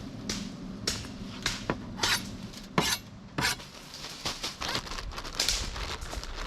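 Cookware and utensils clattering: a string of irregular knocks and clinks, some ringing briefly, as things are handled to prepare a camp meal.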